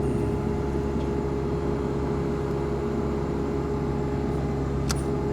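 Compact excavator's diesel engine running steadily as the machine travels, with one sharp click about five seconds in.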